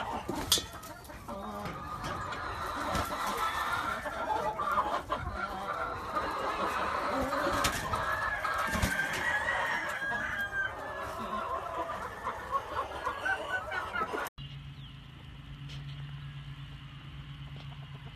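Many chickens clucking with roosters crowing, a dense overlapping chorus. About 14 seconds in it cuts off abruptly to a quieter stretch with a low steady hum.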